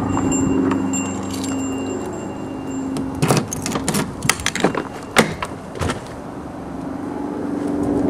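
1991 Honda Accord's four-cylinder engine running at a steady idle, with a cluster of metallic clicks and jingles, like a ring of keys, from about three to six seconds in.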